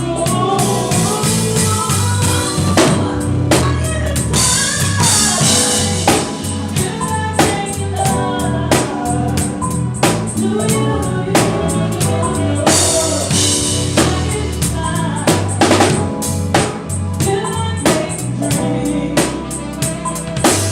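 A band playing with a drum kit, bass drum and snare hits keeping a steady beat, while a singer sings over it.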